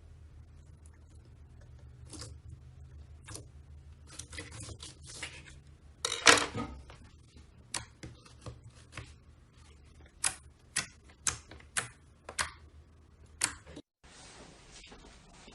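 Slime being squeezed and poked, giving sharp crackling clicks and pops, the loudest cluster about six seconds in, then a run of single pops about one every half second near the end.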